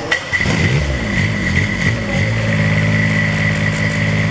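Rebuilt Kubota diesel engine starting: it catches about half a second in, its speed swings up and down for a couple of seconds, then settles into a steady run. A steady high-pitched whine sounds alongside it.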